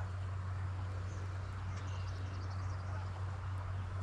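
Steady outdoor ambience by a brook: an even low rush with a deep steady hum beneath it, and a few short high bird chirps.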